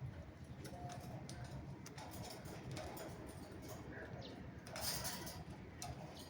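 Pet parrots making short, soft calls among scattered clicks, with a brief noisy rustle about five seconds in.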